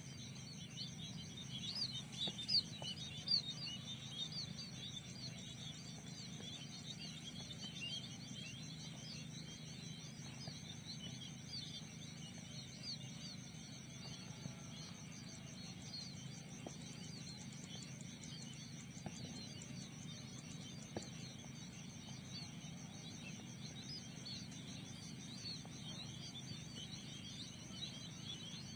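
A flock of small pipit birds chirping rapidly and continuously, over a steady, high pulsing insect drone. A few louder knocks come a couple of seconds in.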